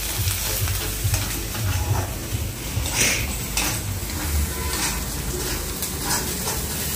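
Ground spice masala sizzling in hot oil in a kadhai, with a spoon scraping and clicking against the pan as it is stirred. It is being fried until the oil separates.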